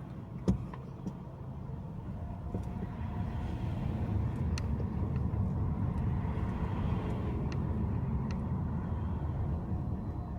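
Low road rumble of a moving car, swelling through the middle and easing near the end. A sharp click about half a second in, and a few faint ticks later.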